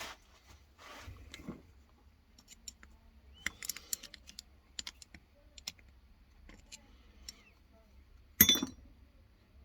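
Scattered small clicks and taps of hand tools and small parts being handled, with one loud clatter about eight seconds in.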